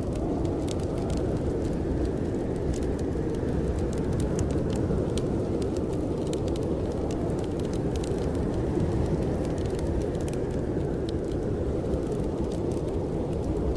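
Blizzard wind blowing hard in a steady low rush, with a wood fire crackling in sharp, scattered pops over it.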